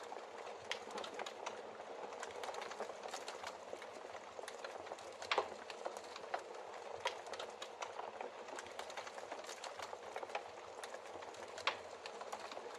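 Wood logs burning in a fireplace: a steady soft hiss and flutter of flames with frequent small irregular crackles and a few louder sharp pops, the loudest about five seconds in and another near the end.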